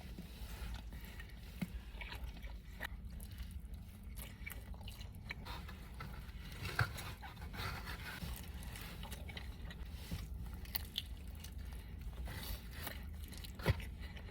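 Close-miked chewing and biting of pepperoni pizza: soft, crackly mouth noises with small crunches. Two sharper clicks stand out, one about halfway through and one near the end.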